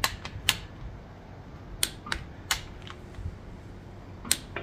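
Click-type torque wrench clicking about six times, sharp single clicks a fraction of a second to nearly two seconds apart, as camshaft bolts reach the set torque of 30 N·m.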